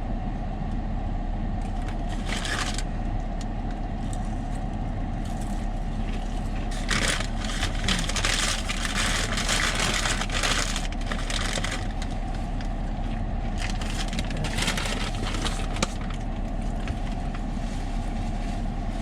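Steady low hum of a car cabin, with bursts of crunching and crackling as fried chicken is eaten and its packaging handled, heaviest in the middle.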